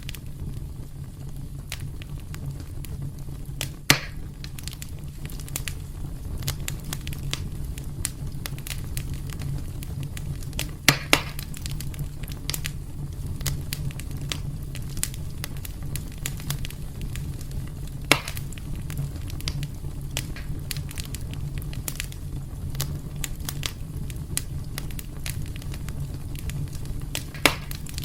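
Wood fire burning in a fireplace: a steady low rumble of flames with frequent small crackles and a few louder sharp pops.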